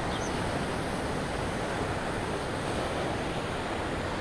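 Stormy sea surf breaking on the shore, a steady rush of waves mixed with wind.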